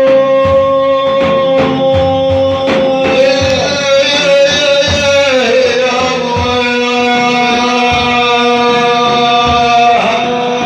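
Sung Prophet-praise chant with long held, melismatic notes and a slight slide in pitch partway through, with regular drum beats under the first few seconds.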